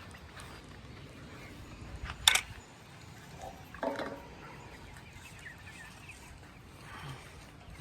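Chickens calling in a quiet yard, one short call about four seconds in, with a single sharp knock about two seconds in.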